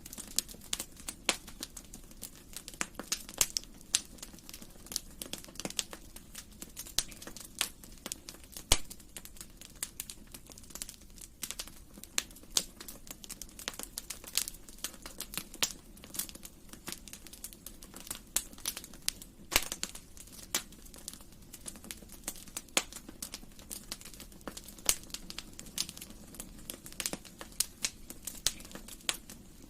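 Wood fire crackling in a fireplace: irregular sharp pops and snaps, several a second, over a faint low steady background, with a louder snap about twenty seconds in.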